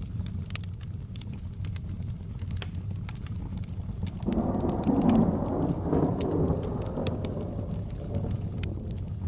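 Fireplace crackling over steady rain. About four seconds in, a roll of thunder swells up suddenly and fades away over about four seconds.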